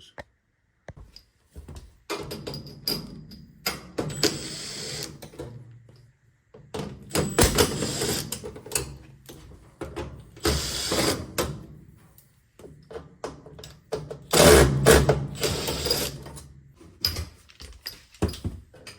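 A power screwdriver or drill backing screws out of the washer's sheet-metal panels in several short runs of motor whine, with handling clatter in between.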